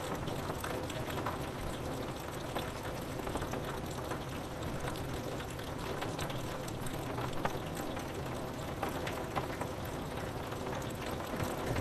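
Steady rain, with many scattered drops tapping on window glass. A low rumble begins to swell at the very end.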